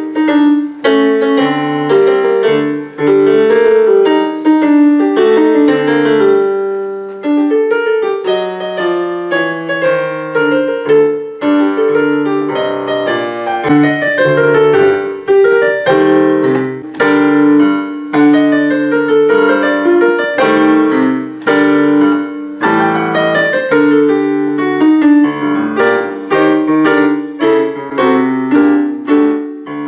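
Solo piano playing a lively scherzo: quick, short notes over a repeating lower line, played steadily throughout.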